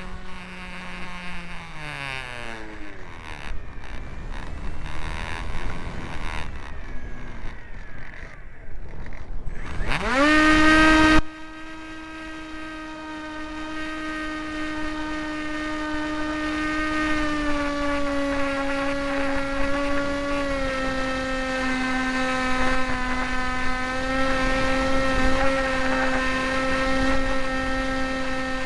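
Electric motor and propeller of a Hawk Sky RC foam plane: its whine falls away as the throttle is cut in the first few seconds, leaving wind noise. About ten seconds in the throttle comes back up with a sharply rising whine that then holds steady, dropping a little in pitch about twenty seconds in.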